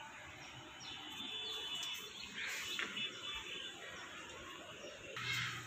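Birds chirping faintly over quiet outdoor background noise.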